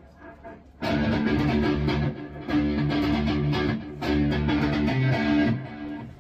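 High-gain electric guitar through a Bogner Uberschall preamp playing palm-muted chugging riffs. A few faint notes open it, then come three loud runs of fast picked chugs, each about a second and a half long with short breaks between, ringing out near the end.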